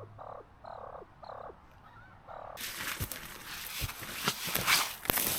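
A grouse giving a run of short, soft clucks, about one every half second. About halfway through, these give way to louder footsteps and rustling as someone walks.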